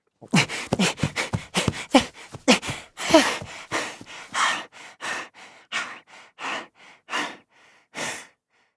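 A person's non-speech vocal sounds, acted to show a feeling: a quick run of short gasps, several falling in pitch, then evenly spaced panting breaths that slow and fade near the end.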